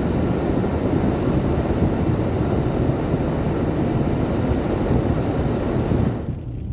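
Steady rushing noise inside a moving car in heavy rain, with the air-conditioning fan blowing to clear fogged windows. The noise falls off sharply near the end.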